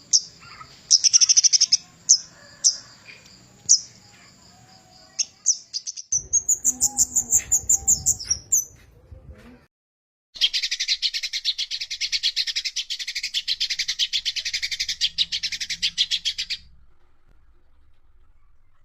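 Kemade gunung, a flowerpecker, calling: a few sharp, high chip notes, then a rising twittering phrase, and after a short silence a long, fast chattering run of about six seconds that stops abruptly.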